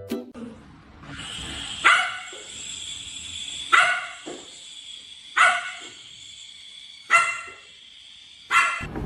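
A dog barking five times, one bark about every one and a half to two seconds, over a steady background hiss.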